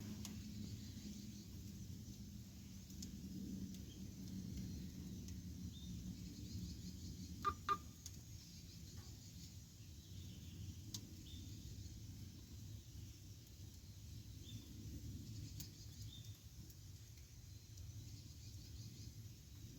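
Campfire burning: a low steady rumble with scattered crackles, and a sharp double pop about seven and a half seconds in.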